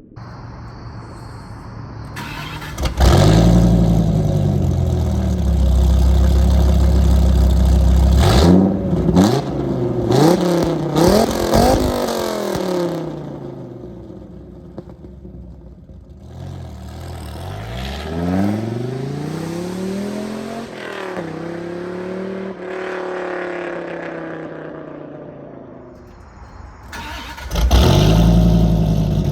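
1999 Dodge Viper RT/10's V10 through a Corsa cat-back exhaust with no catalytic converters: it comes in loudly about three seconds in and runs with a deep, steady note. It is then blipped several times in quick sharp revs with cracks from the exhaust, later swells through one slower rise and fall in revs, and comes in loud again near the end.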